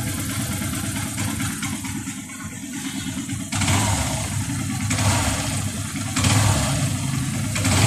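Yamaha FZS V3's 149 cc single-cylinder engine running with a tractor-like clatter, revved up briefly four times in the second half. The noise is the sign of a loose cam chain.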